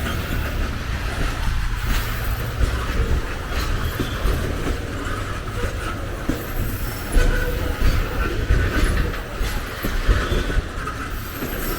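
Train passing close by: wagons rolling along the track, a steady rumble with scattered wheel clicks.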